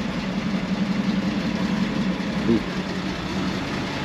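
1949 International KB-5 truck's original engine idling steadily, heard from inside the cab.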